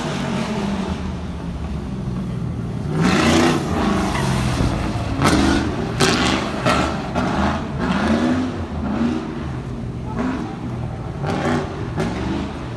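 LS3 V8 engine in a BMW E46 drift car being revved hard, its pitch rising in short repeated pulls about every second, with a few sharp cracks among them.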